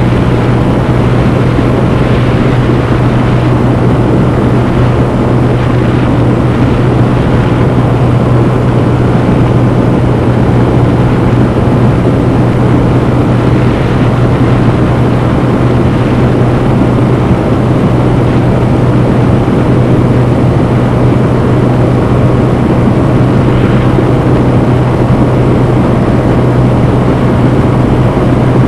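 Honda CB125F's air-cooled 125cc single-cylinder four-stroke engine running at steady revs while riding, with wind and road noise over it.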